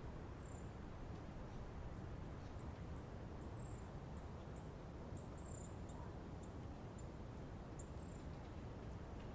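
Faint forest ambience: a steady low rush of wind moving through trees, with short, high-pitched chirps coming irregularly, several times a second at their busiest.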